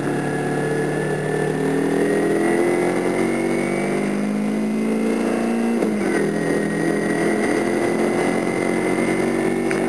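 Kawasaki Ninja 250's parallel-twin engine pulling away in low gear, its pitch rising steadily. About six seconds in the revs drop sharply at a gear change, then climb again.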